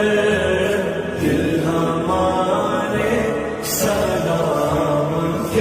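A naat sung as devotional chanting, the voice drawing out long sustained melodic notes.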